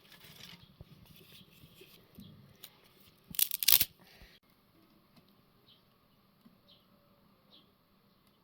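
A brief crackling, rustling burst about three and a half seconds in, over a quiet background with a few faint short chirps later on.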